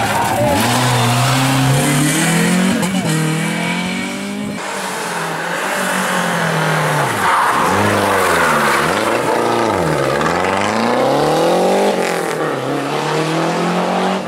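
Rally car engines at full stage pace, revving up and dropping repeatedly through gear changes and lifts for corners. The sound changes abruptly about four and a half seconds in as another car takes over.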